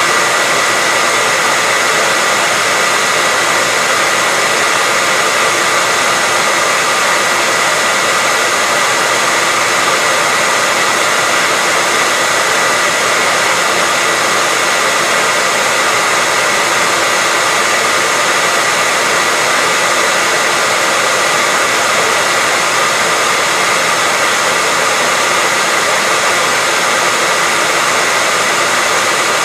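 Hair dryer running steadily: a constant, unbroken blowing noise, mostly high in pitch, with a faint steady whine.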